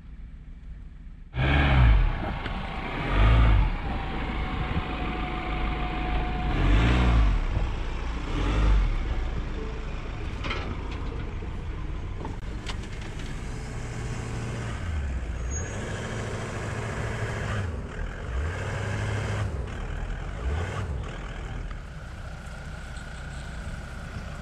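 Off-road 4x4's engine starting abruptly loud and revving hard in repeated surges, its pitch rising and falling, as it charges up a sand dune.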